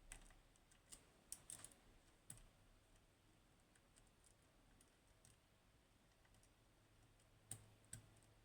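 Faint, scattered clicks of a lock pick and tension wrench working the pins of a Goal Z pin tumbler lock: a cluster of clicks in the first two and a half seconds, then two more near the end.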